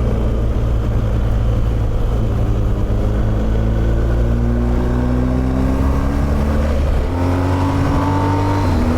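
Motorcycle engine accelerating under load. Its note rises slowly for about seven seconds, drops at an upshift, climbs again and shifts once more near the end, over a steady rush of noise.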